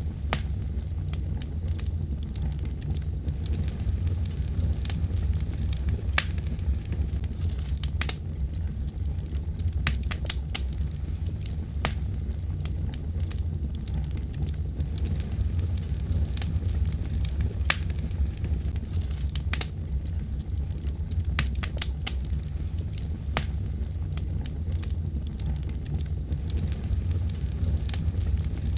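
Wood fire burning with a steady low rumble and sharp, irregular crackles and pops of burning logs.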